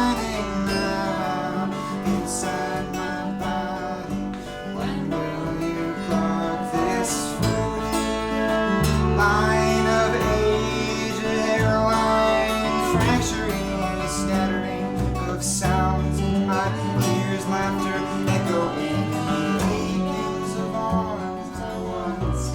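Live acoustic band music: guitar playing with other instruments over a moving bass line, possibly with some singing.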